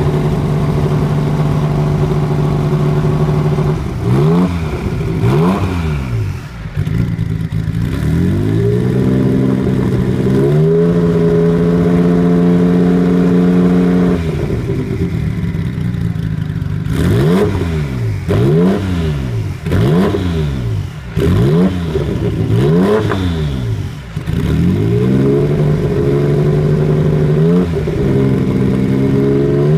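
The twin-turbo flat-six of a Porsche 911 GT1 runs at a steady fast idle, then is revved: two quick blips, a climb to a higher speed held for a few seconds, and a string of about six sharp blips. It ends with another climb to a held higher speed.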